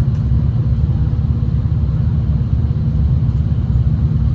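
Steady low rumble of a V/Line passenger train running along the track, heard from inside the carriage.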